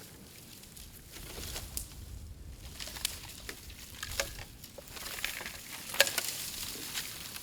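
Bamboo burning on an open bonfire, crackling with irregular sharp pops; the loudest pop comes about six seconds in.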